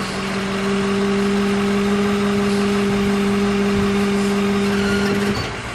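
Ford F550 repo truck's Miller self-loader wheel-lift unit folding under hydraulic power, with a steady hydraulic pump hum over the running engine. The hum stops about five seconds in as the fold finishes.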